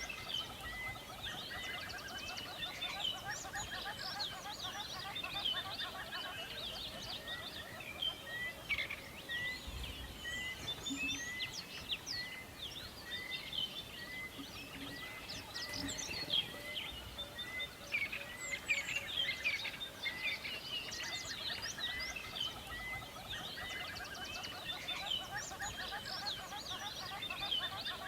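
Forest birdsong: many birds chirping and calling at once, one of them repeating a short note about once a second, over a lower, rapid pulsing trill.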